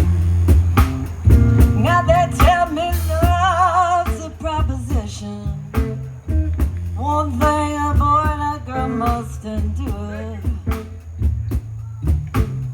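Live blues band playing an instrumental passage: a lead melody with bent, wavering notes over a steady bass line and drum hits.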